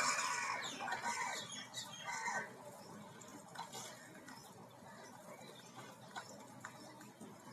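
A bird calling, about three loud calls in the first two and a half seconds with pitch falling at their ends, followed by faint scattered ticks.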